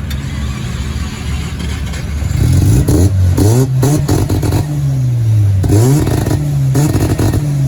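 A car engine revving up and down repeatedly, its pitch climbing and dropping several times, with short noisy bursts around the higher revs; it grows louder about two seconds in.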